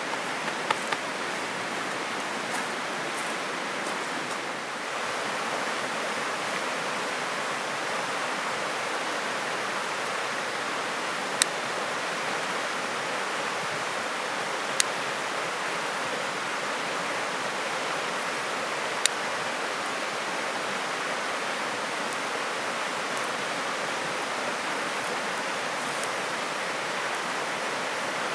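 River water flowing with a steady, even rush, broken by three sharp single clicks a few seconds apart.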